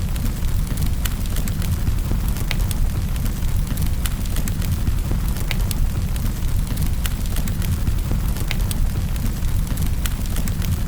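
Wood fire burning in a fireplace: a steady low rumble of flame with frequent sharp crackles and pops scattered irregularly throughout.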